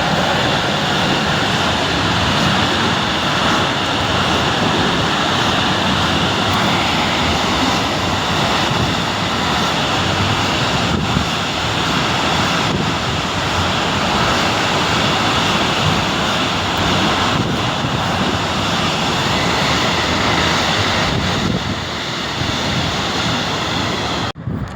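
A train running past close by: a steady, loud rushing rumble of wheels and air, with wind buffeting the microphone. It cuts off abruptly near the end.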